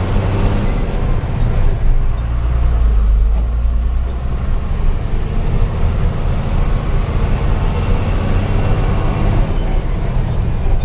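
Diesel truck engine running steadily under a 17-tonne load, a low drone mixed with road noise, heard from inside the cab.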